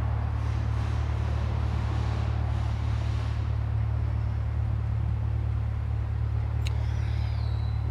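2021 C8 Corvette's 6.2-litre LT2 V8 idling steadily, heard from inside the cabin, with one faint click near the end.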